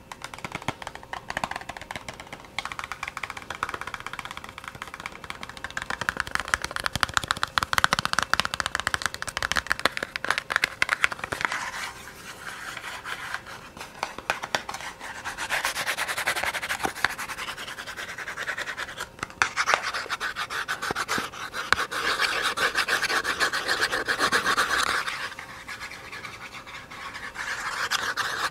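Fast, dense ASMR tapping with a scratchy edge, many light strikes a second in a continuous run that grows louder and softer in stretches.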